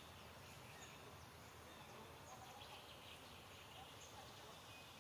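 Near silence: faint outdoor background hiss with a few faint, short high chirps scattered through it.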